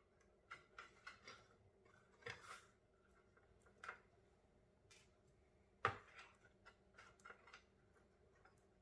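Sparse light clicks and taps from small computer parts and cables being handled, with a sharper click about six seconds in.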